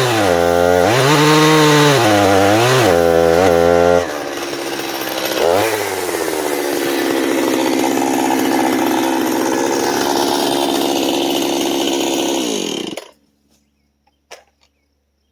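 Two-stroke chainsaw cutting wood at full throttle, its pitch dipping and recovering several times as it bogs in the cut. It then runs quieter and steadier for several seconds and cuts off suddenly about 13 seconds in.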